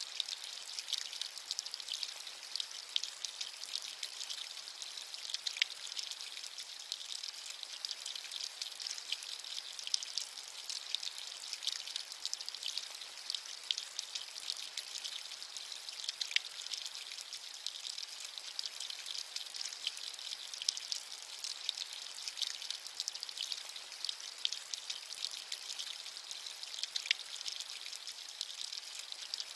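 Steady rain with a bright hiss, dotted with many small drop ticks and a few sharper ones.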